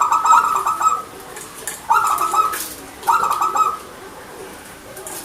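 Zebra dove (perkutut) cooing: three quick, trilling coo phrases, each less than a second long, spaced about a second apart.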